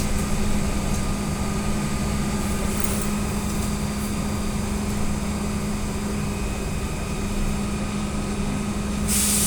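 Inside an AKSM-321 trolleybus under way: a steady electric drive hum over running noise, with a short hiss of air just before the end.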